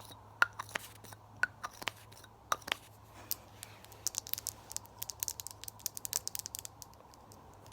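Close-miked ASMR mouth sounds: a few sharp wet clicks and pops, then, from about four seconds in, a fast, dense run of clicking and smacking that stops shortly before the end.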